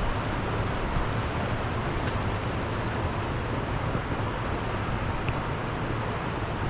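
Steady rush of a nearby waterfall and stream, an even continuous noise.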